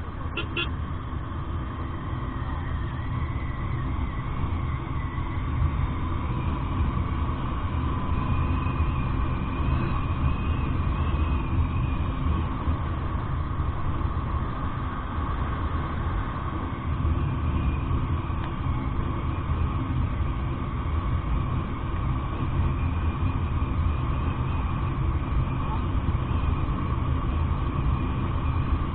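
Royal Enfield Interceptor 650 motorcycle on the move: a steady low rumble of wind and engine, with a faint hum.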